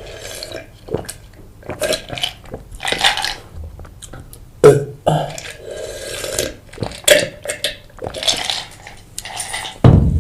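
Close-miked eating sounds of pizza being chewed, in short wet bursts, with a loud burp about halfway through.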